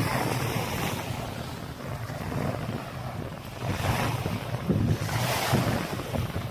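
Waves washing onto a sandy beach, swelling a few times, with wind rumbling on the microphone.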